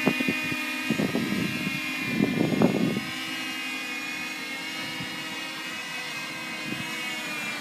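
DJI Mavic quadcopter with prop cages flying, its propellers giving a steady high-pitched whine, with a few bursts of rushing noise in the first three seconds.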